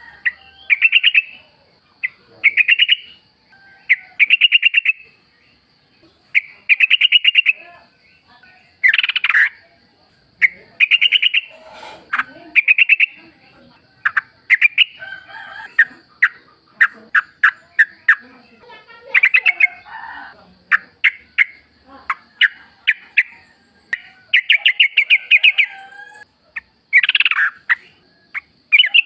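Yellow-vented bulbuls singing: short, bubbly chattering phrases repeated every second or two, with a faint steady high whine underneath.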